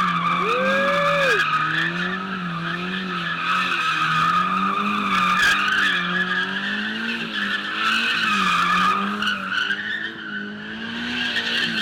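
A car's engine held high in the revs, its pitch wavering up and down, with a continuous tire squeal, as in a car sliding or drifting.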